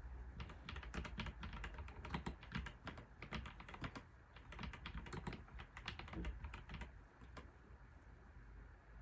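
Typing on a computer keyboard: quick runs of keystrokes broken by short pauses, thinning out near the end.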